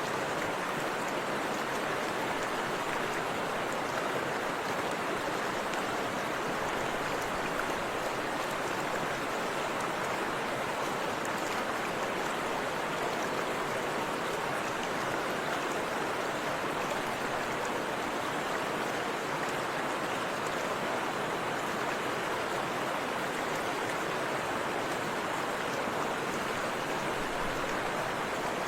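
Forest river and waterfall water rushing steadily, an even unbroken roar of flowing water.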